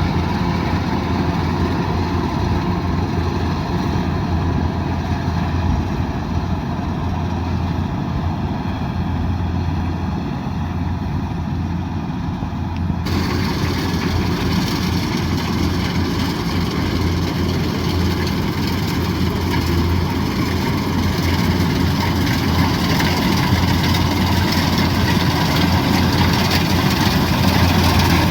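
Kubota DC108X combine harvester running steadily, its diesel engine and working machinery giving a continuous low hum under a broad mechanical noise. About halfway through, the sound turns abruptly brighter and hissier.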